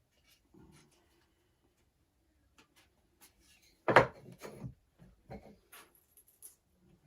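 Wooden beehive frame parts being handled and fitted together: scattered light knocks and clicks, with one sharper, louder knock about four seconds in and a few smaller ones after it.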